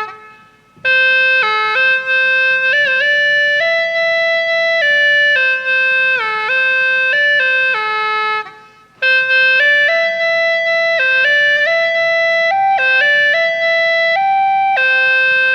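Hulusi (Chinese gourd flute) playing a solo melody, one note at a time, with notes often sliding down in pitch as they end. The playing pauses briefly about a second in and again about halfway through.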